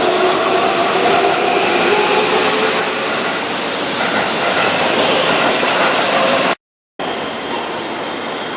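Keihan 9000 series VVVF electric train running, with a dense rail hiss and faint inverter tones that drift slowly in pitch. The sound cuts out for a moment about six and a half seconds in, then the train noise resumes a little quieter.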